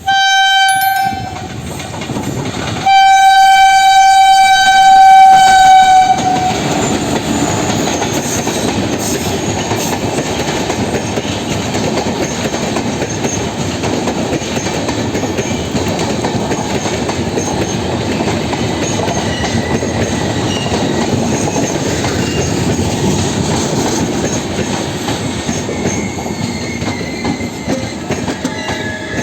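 WAP-4 electric locomotive's horn sounding twice, a short blast and then a longer one of about three seconds, followed by the steady rumble and clickety-clack of the express train's coaches running past.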